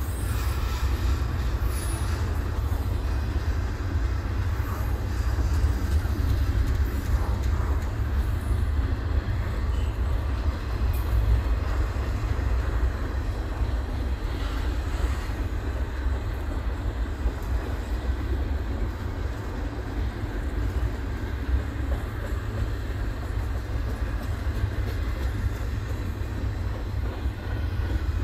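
Double-stack intermodal well cars rolling past on the rails: a steady, continuous noise of steel wheels on track, heaviest in the low end.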